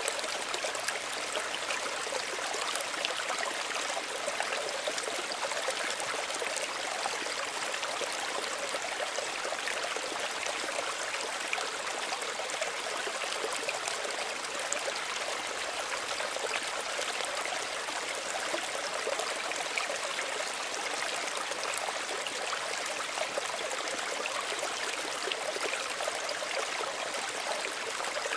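Small stream running steadily over stones, an even babble and trickle of water.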